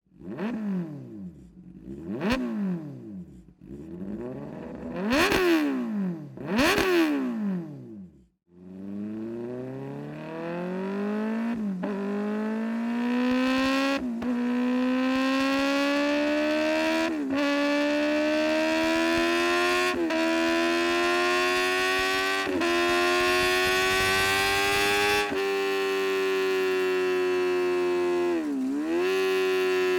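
Kawasaki Ninja ZX-10R inline-four through an SC-Project CR-T/GP70-R decat racing exhaust: several sharp throttle blips, then hard acceleration up through the gears, the pitch climbing and dropping at each upshift every two to three seconds, with a brief dip near the end.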